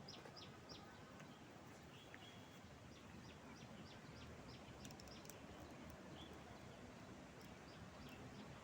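Faint bird chirping: short, high chirps repeated in quick runs, at the start and again from about three seconds in, over a quiet, steady outdoor hiss.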